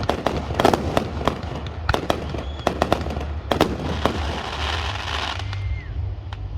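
Fireworks going off: a quick string of sharp bangs and cracks, then, about four seconds in, a crackling hiss lasting over a second, followed by a short falling whistle.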